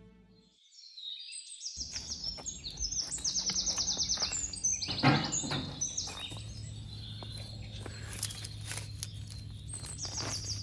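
Songbirds chirping and singing in quick repeated trills. A single sharp knock comes about five seconds in, and a low steady hum sets in soon after.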